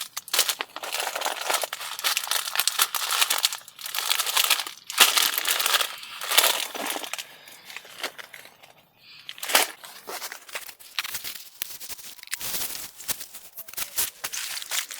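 Plastic snack wrappers, instant-noodle packets and biscuit bags, crinkling in irregular bursts as they are handled, with a short lull a little past the middle.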